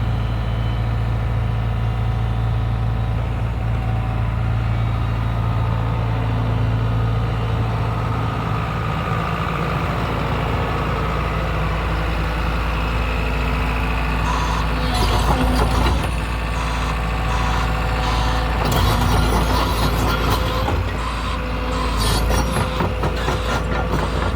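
Excavator's diesel engine running steadily. About halfway through, a run of knocks and rattles begins and comes in clusters.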